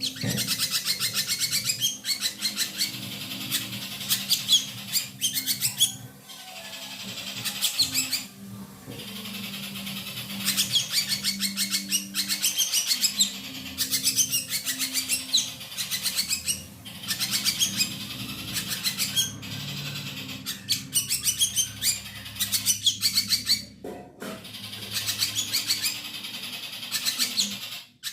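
Ashy drongo song: bouts of rapid, chattering high notes a few seconds long, broken by short pauses, over a faint low steady hum.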